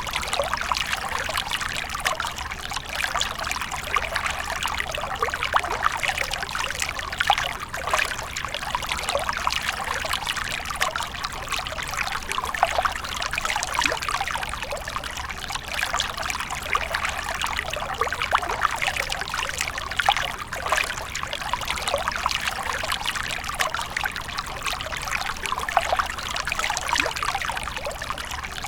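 Water fountain splashing and trickling steadily, a continuous patter of falling water.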